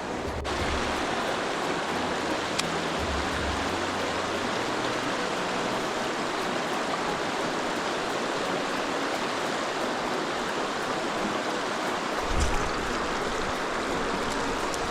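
Steady rush of river water pouring down a fast run, with a few brief low thumps, the clearest near the end.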